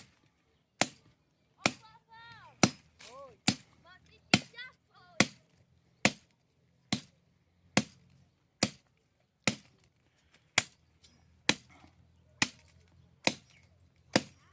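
Firewood being chopped: about seventeen evenly spaced sharp blows of a blade into wood, a little more than one a second.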